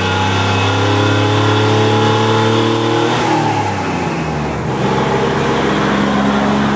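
Worn 292 cubic-inch straight-six of a 1966 Chevy truck, with only about 90 psi of compression, revving high under acceleration, its pitch climbing slowly. About three seconds in the revs fall sharply, and the engine settles into a steadier run at lower revs.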